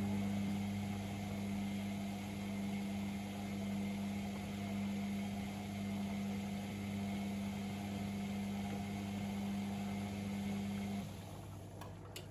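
Privileg Sensation 952 S top-loading washing machine running with a steady low hum, which stops about eleven seconds in.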